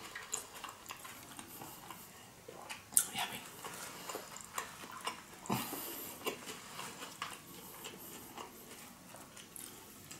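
Close-miked chewing of a mouthful of sushi: soft, irregular wet mouth clicks and smacks, with a sharper click about three seconds in and another about five and a half seconds in.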